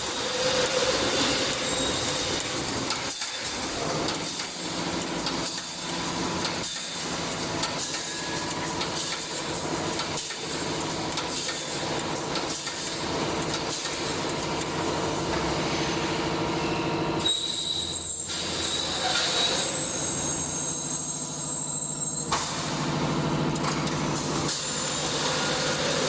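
Automatic wire mesh panel welding machine running in production: a steady mechanical hum with repeated short knocks and clanks from the welding and wire-feed strokes.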